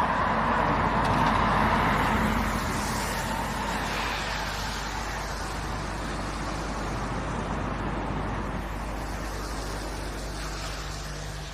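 Street traffic: a vehicle passes close, loudest in the first couple of seconds, then its tyre and engine noise slowly fades. A low steady engine hum sounds in the second half.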